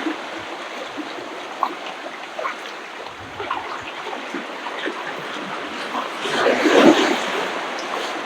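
Ocean surf washing onto a beach: a steady hiss with small crackles, as one wave surges louder about six and a half seconds in and then fades.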